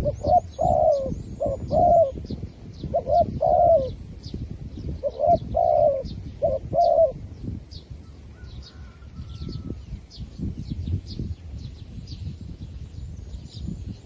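Decoy zebra dove cooing in three quick runs of short, staccato notes in the first seven seconds, then falling quiet. Small birds chirp faintly and high-pitched throughout.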